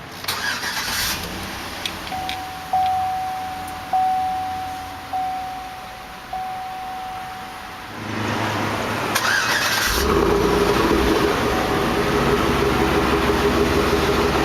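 Four dashboard chimes about a second apart, then the 2008 Chevrolet Tahoe's V8 cranks on the starter and catches about ten seconds in, settling into a steady idle.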